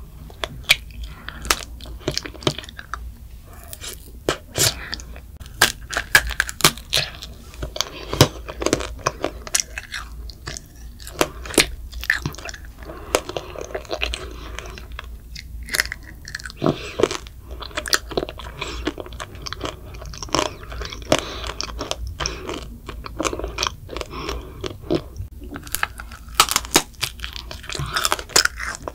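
A child biting and chewing a candied macaron (tanghulu), its hardened sugar shell crunching in many sharp crackles between softer, wetter chewing sounds.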